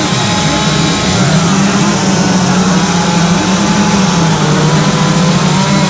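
Chainsaw engine running continuously while carving. Its pitch drops sharply and climbs back near the start, then holds steady.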